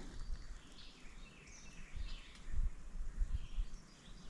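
Small birds chirping steadily in the background, with a few low bumps on the microphone about halfway through.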